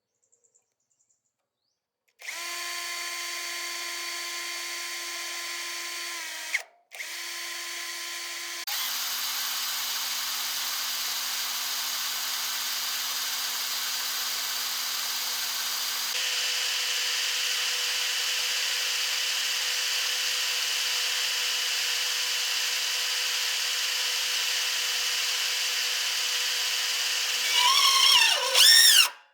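An electric power tool's motor runs at a steady pitch from about two seconds in, stops briefly and starts again, then settles into a lower tone with a loud hiss for a long stretch. Near the end its pitch swoops up and down several times before it cuts off.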